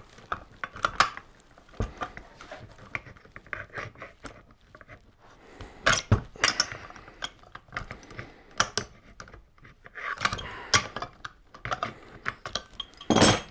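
Scattered clicks, clinks and knocks of small metal power-tool parts being unscrewed, handled and set down while a grinder is taken apart, with a sharper knock about six seconds in and another near the end.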